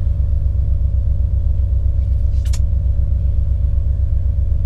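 Semi truck's diesel engine idling: a steady, evenly pulsing low rumble with a faint hum above it. A single short click comes about two and a half seconds in.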